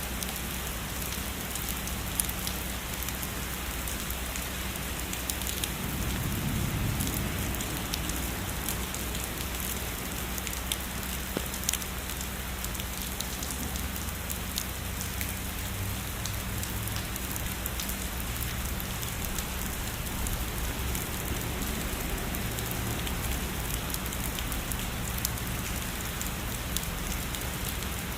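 Steady heavy rain falling on a surface, an even hiss dotted with many small, crisp drop ticks. About six seconds in there is a brief low swell.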